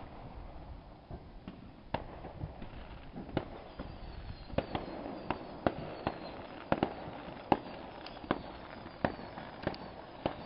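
Distant aerial firework shells bursting in a string of sharp bangs, a few at first and then one or two a second from about four seconds in, with faint falling whistles among them.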